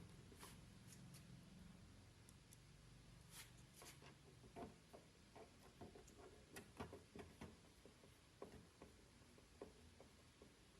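Faint, irregular light clicks and taps over quiet room tone, with a faint low hum in the first two seconds.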